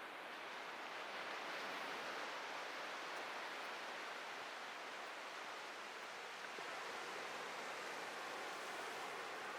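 Atlantic ocean surf washing onto a beach: a steady rushing hiss of breaking waves that swells over the first couple of seconds and then holds.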